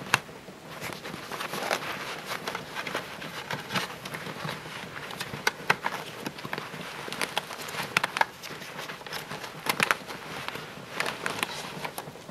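Irregular clicks, knocks and rustling as hands work on a Panasonic canister vacuum cleaner, opening its dust compartment and pulling out the full paper dust bag. The motor is off.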